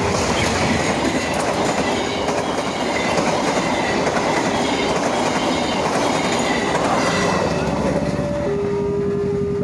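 KA Dhoho passenger train passing at speed over a level crossing, its wheels and carriages rushing by in a dense, steady noise. The crossing's two-tone warning alarm sounds faintly beneath.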